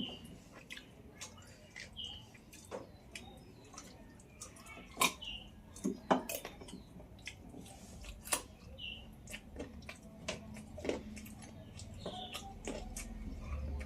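Close-up eating sounds of a meal of rice and chicken curry: irregular wet mouth clicks, chewing and lip smacks, with a few sharper louder clicks around the middle.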